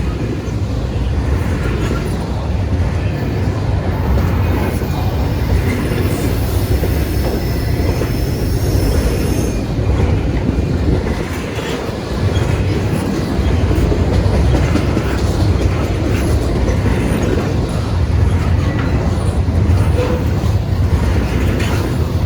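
Freight train rolling past: a steady rumble of wheels on rail, with faint high-pitched wheel squeal through the first half.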